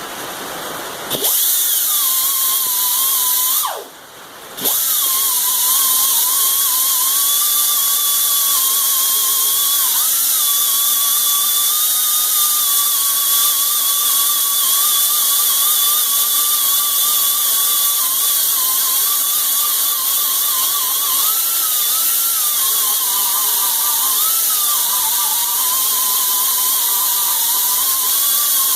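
Pneumatic air grinder polishing steel plate: it spins up about a second in, its high whine wavering in pitch as it bears on the metal. Around four seconds in it winds down briefly and spins back up, then runs steadily on.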